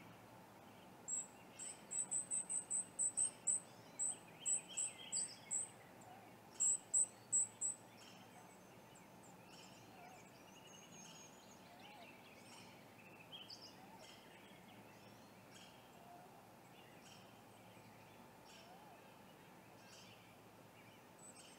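A run of short, sharp, very high-pitched bird chirps, about three a second, that stops about seven seconds in. After that only faint birdsong is left over a steady outdoor hiss.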